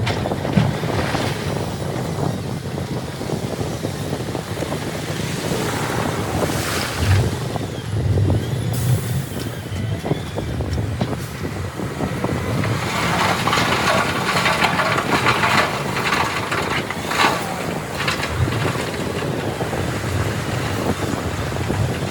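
Heavy earthmoving machinery running by turbulent river water, with a steady low engine rumble and wind on the microphone. From about 13 to 17 seconds in there is a louder, harsher clattering stretch.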